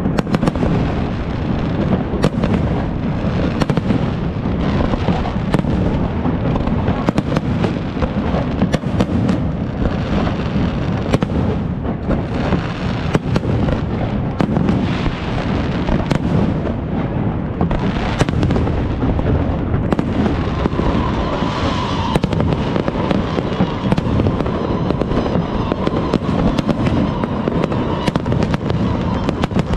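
Fireworks display: a dense, continuous barrage of bangs and crackling bursts with a constant low rumble. About two-thirds of the way through, a faint steady tone joins in.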